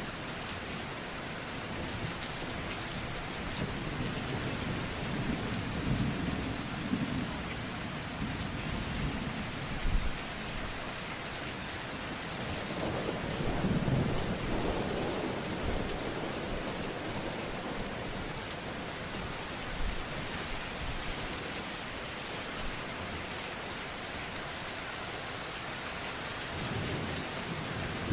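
Steady rain pouring down in a thunderstorm, with low rolls of thunder swelling twice, the second stronger, and a couple of short sharp cracks.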